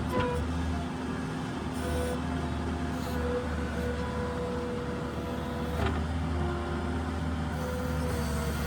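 New Holland skid steer's diesel engine running steadily at work, with a knock near the start and another about six seconds in.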